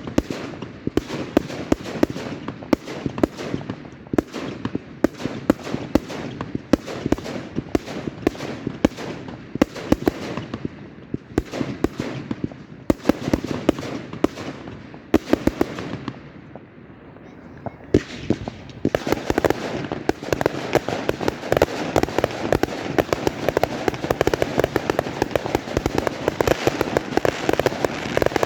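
Fireworks going off in quick succession: a rapid run of bangs and crackles that dips briefly about two-thirds of the way through, then returns as a denser crackling volley.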